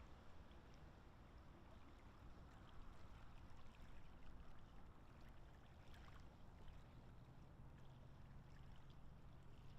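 Near silence: faint lakeside ambience with a steady low rumble and soft water sounds, with scattered faint ticks.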